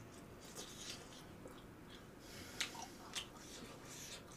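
Faint wet chewing of spicy tteokbokki rice cakes, with a few soft mouth clicks and smacks.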